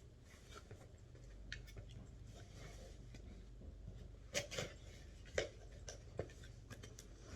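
A few light knocks and clicks of boxes and packing being handled, scattered over a faint low hum.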